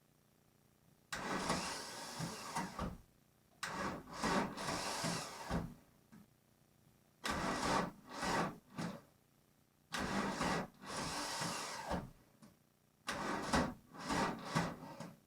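VW Golf Mk1 1.9 turbodiesel's starter motor cranking in five bursts of about two seconds each with short pauses between, a rough, grinding bad starter sound as it is worked hard on a long-stored car that does not yet fire.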